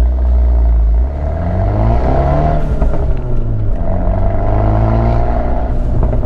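Abarth 124 Spider's turbocharged 1.4-litre four-cylinder with a Ragazzon exhaust, on the move under throttle. The revs climb about a second in, fall back, then climb again in the second half before dropping near the end.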